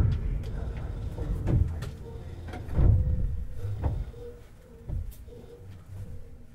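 Underfloor running sound of a Tobu 50090 series electric train: a low rumble broken by heavy thuds about a second apart, starting with a loud one and growing weaker towards the end, with a faint steady hum.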